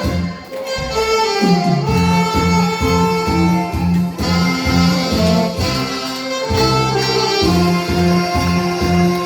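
Saxophones playing a trot melody over a recorded backing track with a steady bass beat.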